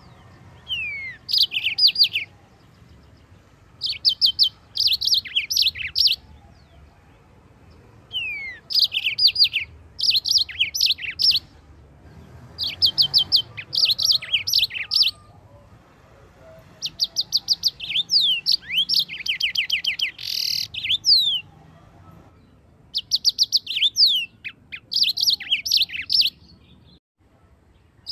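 Yellow-fronted canary (Mozambique finch) singing in repeated phrases of fast, high trills mixed with downward-sliding notes, each phrase a second or two long with short pauses between.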